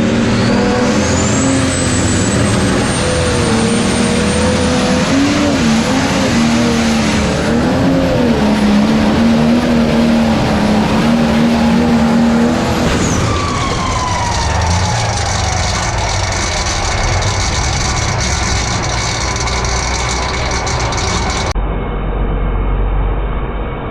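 Turbocharged diesel engine of a pulling tractor at full throttle under load, its pitch wavering, with a high turbo whistle. About halfway through the throttle is cut and a falling whine follows as the engine and turbo run down.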